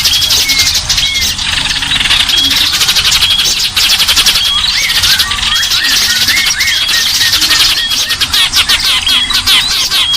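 A dense chorus of small songbirds calling at once: fast, continuous chattering trills with short whistled notes and quick up-and-down glides repeating through them.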